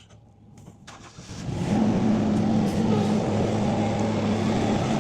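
A motor starts up and runs steadily with a low hum, then stops abruptly at the very end.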